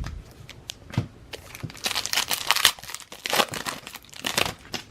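Foil trading-card pack wrapper crinkling as it is torn open, in two spells of rustling and crackling, about two seconds in and again near four seconds.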